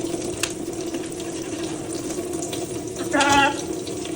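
Tap water running in a steady stream with a macaw bathing under it. A brief pitched call cuts in about three seconds in.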